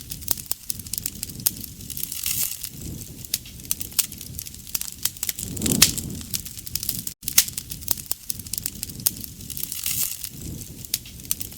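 Wood campfire crackling, with frequent sharp pops over a low rumble of the flames that swells and fades every few seconds.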